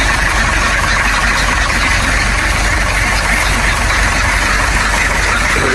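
An engine running steadily at a constant speed, with a deep steady hum underneath.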